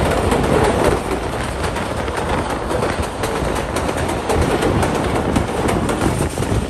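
Passenger train coaches running at speed, heard from an open window: a steady rumble and rattle of wheels on the rails with frequent sharp clicks, a little louder in the first second while crossing the steel girder bridge.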